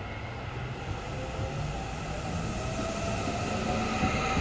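Electric commuter train running along the tracks at close range, its sound growing steadily louder, with a rising whine starting partway through.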